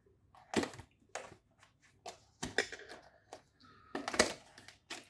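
A product box being opened by hand: a string of sharp clicks, taps and scrapes from the packaging, with light rustling between them.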